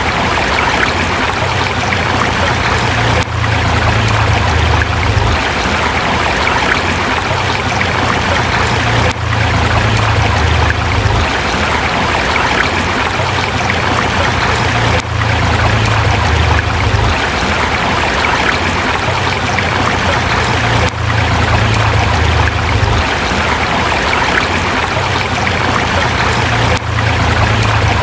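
A forest river flowing over rocks: a steady rushing of water, with a low rumble underneath that swells and fades every couple of seconds.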